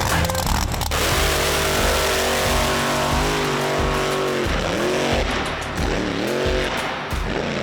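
Mega truck engine running hard at high revs, its pitch dipping and climbing back several times as the throttle is eased and reapplied. There is a beat of music in the first second.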